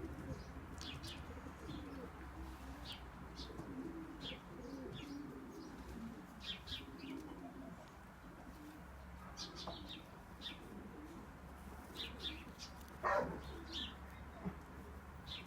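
Pigeons cooing in the background, with short high chirps of small birds scattered throughout and one louder, brief rising call about thirteen seconds in.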